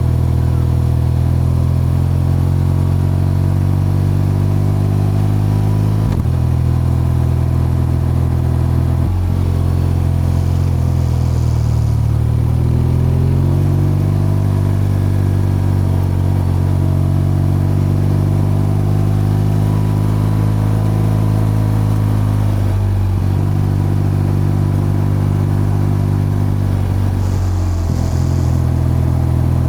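BMW R12's boxer-twin engine and exhaust running under way, a steady note with several brief breaks. About a third of the way in, the engine note falls and then climbs again.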